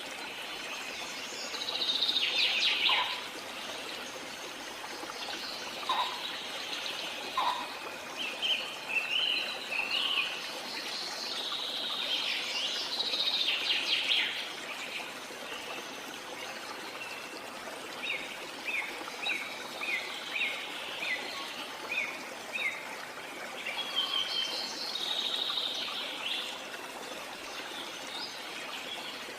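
Birds chirping and calling over a steady rush of flowing water, with a quick run of short repeated chirps in the second half.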